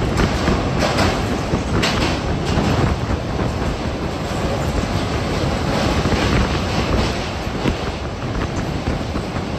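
Train wheels rolling over the rails of a river rail bridge: a steady rumble with several sharp clicks in the first few seconds.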